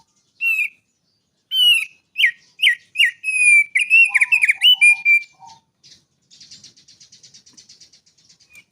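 A songbird singing: a run of clear, quickly repeated down-slurred whistles, then a fast, buzzy trill near the end.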